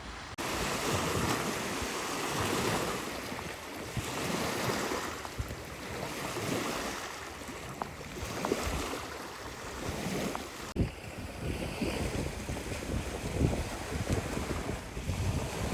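Lake water lapping and sloshing close to the microphone, mixed with wind buffeting the microphone, in uneven swells with a few small clicks.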